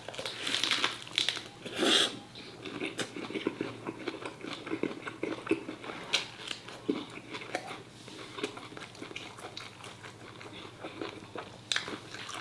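A person chewing and biting close to the microphone on phá lấu, pork offal and pig's trotter braised in coconut water. Many short wet clicks and smacks, loudest about two seconds in.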